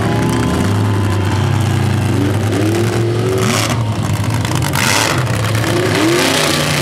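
Mud truck engines running, the pitch rising and falling twice as the throttle is blipped, with two short bursts of rushing noise.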